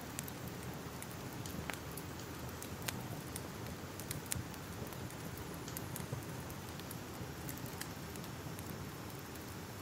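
Crackling fire: a steady low rush broken by irregular sharp pops and snaps, a few louder ones in the first half.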